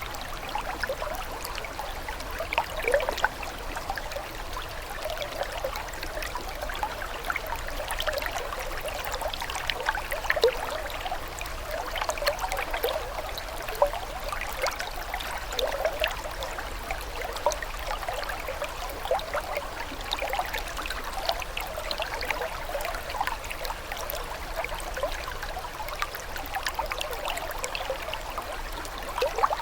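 Water running and trickling, a steady hiss with many small gurgles and splashes.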